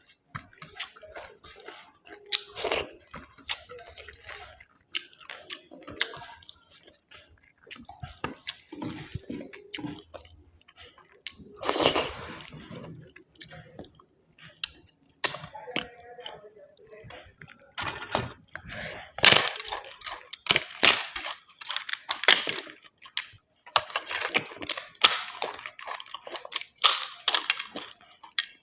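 Close-miked eating sounds of a person chewing a meal of chicken biryani with gravy and papad: irregular wet chewing and mouth smacks with short crunches, coming thicker and louder in the second half.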